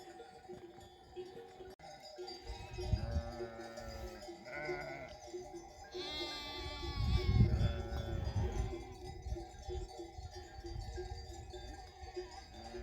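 Sheep and lambs bleating several times, the most prominent calls a few seconds in and about six seconds in, over the steady ringing of sheep bells. A low rumble swells in the middle, loudest around seven seconds.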